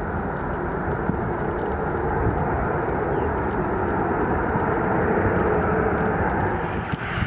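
Boeing 737-800's CFM56-7B jet engines, a steady rushing noise. Near the end the sound turns brighter.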